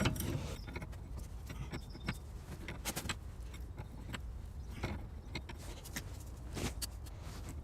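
Light metallic clicks and clinks from a wrench working a tie rod end's lock nut, winding it back along the tie rod's thread. There are a few scattered clicks a second or so apart rather than a steady sound.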